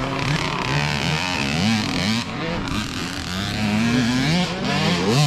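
Several small dirt bike engines revving up and down during racing, overlapping, their pitch rising and falling with each throttle change.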